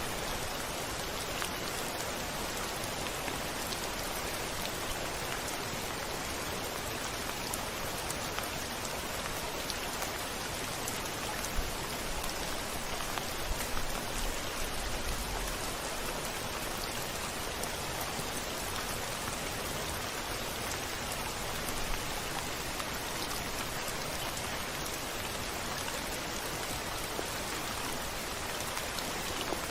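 Steady rain with scattered drop hits, and a brief low rumble about halfway through.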